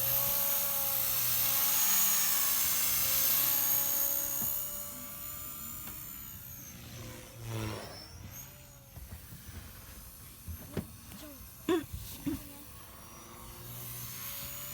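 Blade Fusion 180 electric RC helicopter's motor and rotor whining in flight. It is loud at first, fades about halfway, with its pitch dipping then rising as it passes, and grows louder again near the end. A few short sharp knocks sound near the end.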